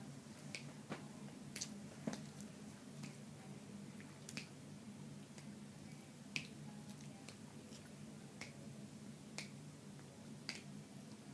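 Faint mouth sounds of someone eating, heard close to the mic: sharp, irregular clicks and smacks about every half second to second over a steady low hum.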